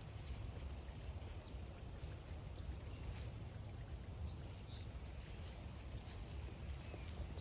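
Rainy forest-trail ambience: an even hiss of light rain over a steady low rumble, with a few faint, short high chirps.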